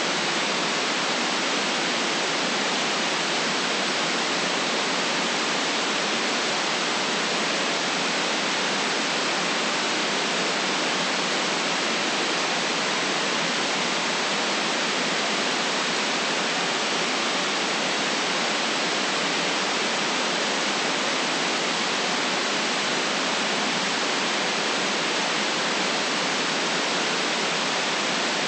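White noise: a steady, even hiss that never changes, with no deep rumble beneath it.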